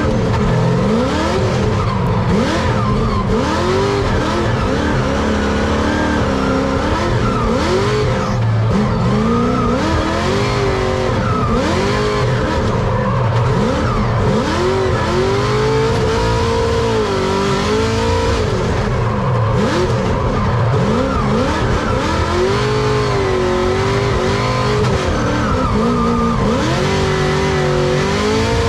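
Drift car engine revving up and dropping back over and over through a drift run, with tyres squealing and skidding.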